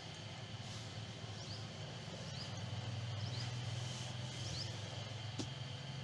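Short, high, rising bird chirps now and then over a low steady hum, with one sharp click near the end.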